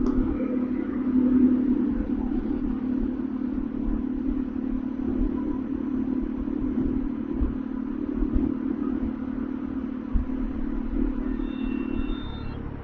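Bajaj Dominar 400's single-cylinder engine running steadily under a rider on the move, heard from onboard as a low, even drone that swells briefly about a second and a half in.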